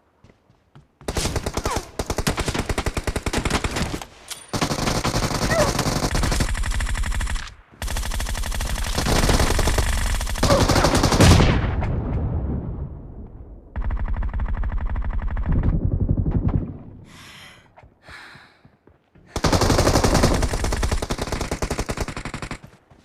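Video game automatic gunfire: rapid fire in about five long bursts of two to four seconds each, separated by short pauses.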